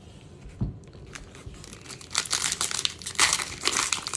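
Foil wrapper of a Bowman baseball card pack being torn open and crinkled. A soft thump comes first; the crinkling starts about halfway in and grows loud.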